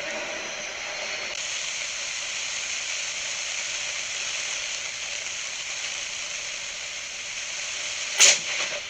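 Steady hiss of heavy rain, then near the end one sharp, very loud crack of a close lightning strike.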